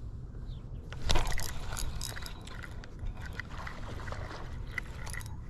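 A hooked fish splashing at the water's surface: a loud splash about a second in, then scattered smaller splashes. Wind buffets the microphone with a steady low rumble.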